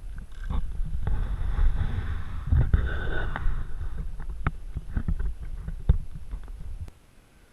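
Low rumbling noise with scattered knocks and bumps, like wind buffeting and handling on the microphone, cutting off suddenly near the end.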